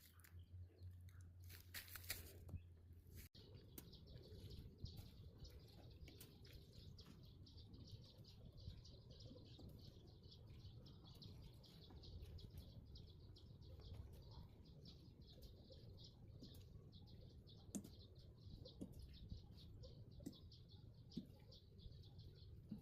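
Near silence with faint bird chirping, a few soft clicks near the start.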